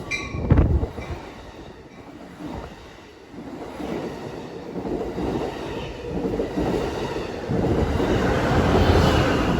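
Amtrak passenger train pulling out of the station, its rumble and wheel noise growing louder from about three seconds in, with a short knock at the start.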